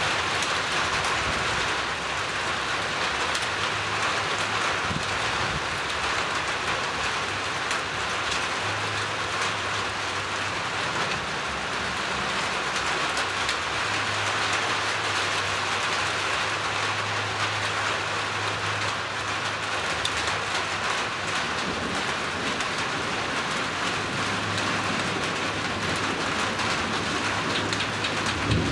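Steady rain falling, with low rumbles of thunder coming and going beneath it and a louder rumble right at the end.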